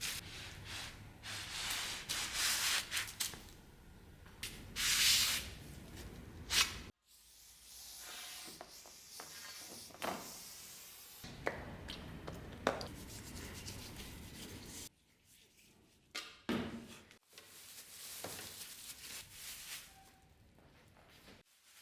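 Hand rubbing and scraping on the sword's metal during rust cleaning, in several short clips cut together, with a few sharp knocks.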